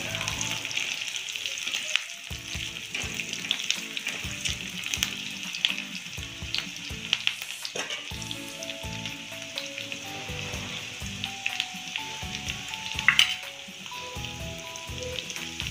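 Chopped garlic and green chillies sizzling in hot oil in a kadhai over high heat, with a metal spoon stirring and scraping against the pan and a sharp clatter near the end. Faint background music plays underneath.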